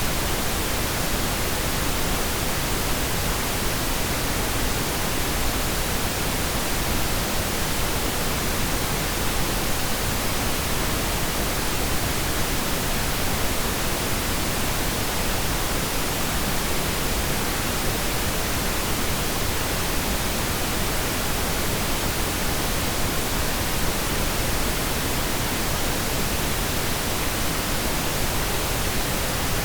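Steady pink noise: an even, unbroken hiss with no changes in level or pitch.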